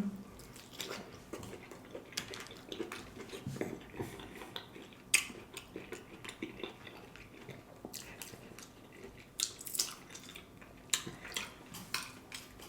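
Close-up eating sounds of stuffed bell pepper being chewed, with small wet mouth noises and scattered sharp clicks of cutlery against a dish.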